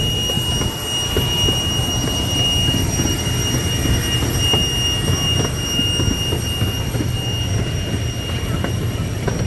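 Amusement-park ride train running along its track: a steady low rumble with scattered clicks and knocks from the wheels and cars, and a steady high whine over it.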